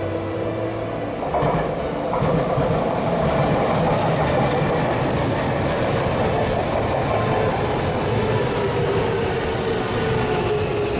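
Electric commuter train running past on the rails. It grows loud about a second in, and a high whine slowly falls in pitch as it goes by.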